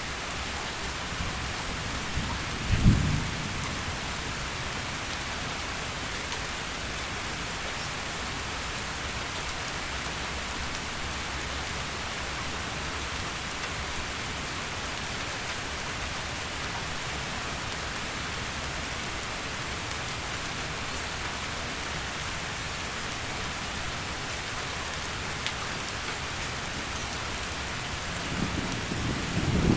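Steady heavy rain with a short low thunder rumble about three seconds in, and another rumble of thunder building near the end.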